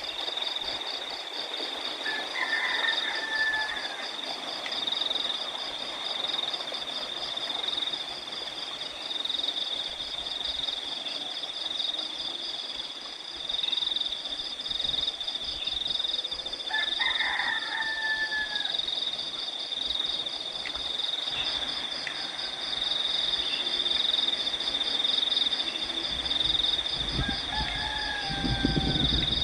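Crickets chirring in a steady, high, pulsing trill, with a rooster crowing three times: near the start, midway and near the end.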